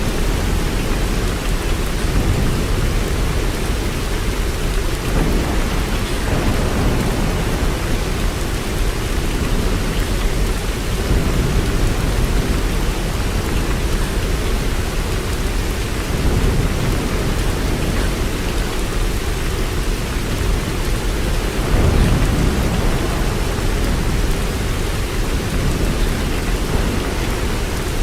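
Steady rain falling, with several low rumbles swelling under it, the strongest about three quarters of the way through.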